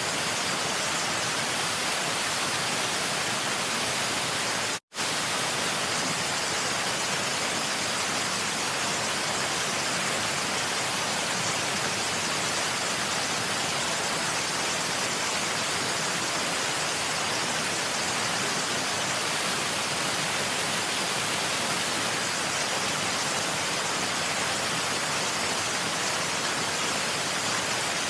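Waterfall rushing steadily, an even hiss strongest in the high end, that cuts out to silence for a split second about five seconds in.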